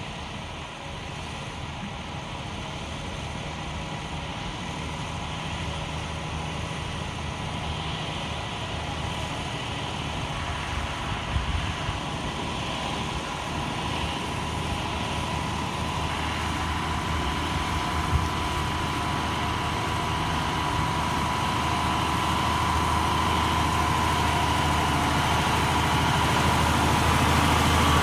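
Concrete mixer truck's diesel engine labouring up a very steep grade under load, growing steadily louder as it comes closer, with a couple of brief knocks partway through.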